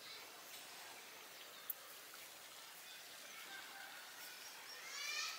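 Faint outdoor ambience with birds calling, the calls growing louder near the end, and one sharp tick about a second and a half in.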